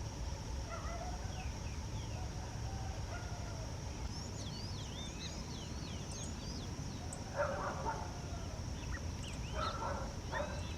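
Mixed wild birdsong, short chirps and quick whistles from several small birds, over a steady low rumble. A dog barks in short bouts about two thirds of the way through and again near the end.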